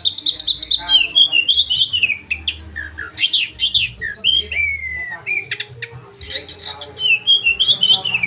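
Oriental magpie-robin (kacer) singing a loud, varied song: sharp whistled notes and falling and rising glides mixed with rapid trills, one phrase after another with no break.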